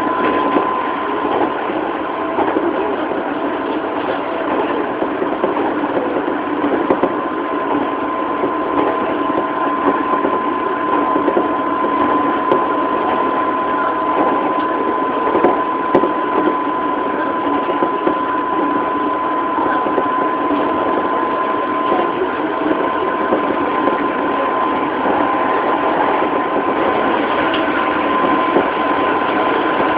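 Interior running noise of a JR 205-series electric train's motor car cruising at steady speed. A steady whine of unchanging pitch from the MT61 traction motors and gearing sits over the rumble of wheels on rail, with a few faint knocks.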